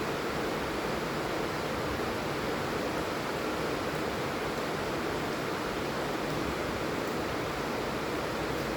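Heavy rain falling steadily, an even, unbroken hiss with no separate drops standing out.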